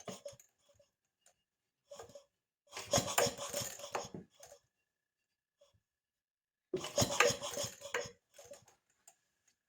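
Clinking and rattling of small metal parts being handled, in three separate bursts with quiet between.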